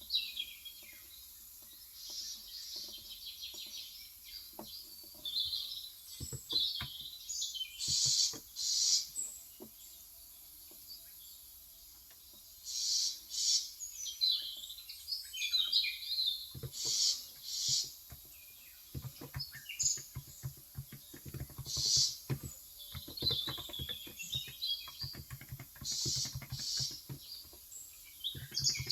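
Small birds chirping and twittering, mixed with keystrokes on a Cox Endeavour electrostatic capacitive (Topre-style) keyboard with 35 g switches: a few scattered keystrokes at first, then steady typing from a little over halfway through.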